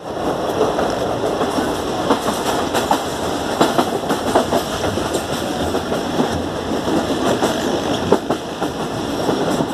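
Passenger train running along the track, heard from inside a coach: a steady rumble of wheels on rail, broken by irregular clicks and clacks as the wheels pass over joints.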